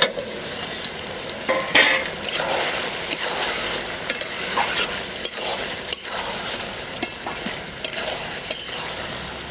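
Chicken pieces sizzling and frying in a steel pot as a spatula stirs them, with repeated scrapes and clicks of the spatula against the pot.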